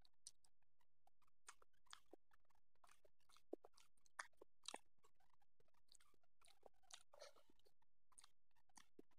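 Faint close-up chewing of a mouthful of food: irregular soft wet clicks and smacks from the mouth.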